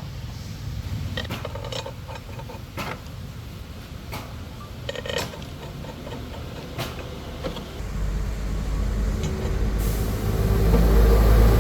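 Low engine rumble with scattered sharp metallic clinks and knocks, then an engine grows much louder from about eight seconds in and runs steadily.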